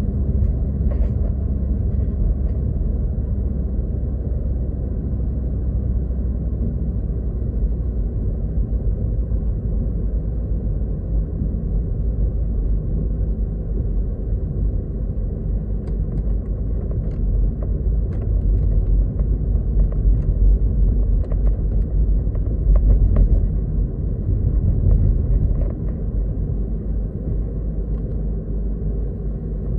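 Steady low rumble of a car driving, heard from inside the cabin, with scattered faint light taps. It swells a little past the middle.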